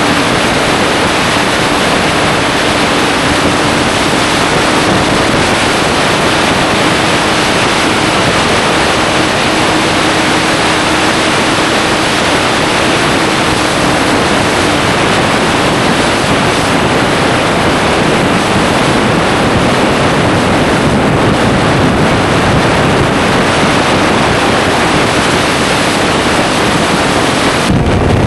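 Steady, loud wind noise over the microphone of a motorcycle at speed. The bike's engine note sits faintly beneath it for about the first half.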